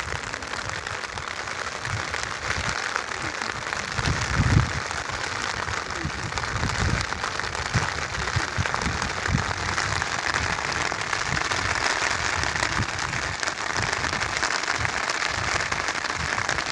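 Steady rain falling, a dense hiss with irregular low thumps, the loudest about four and a half seconds in.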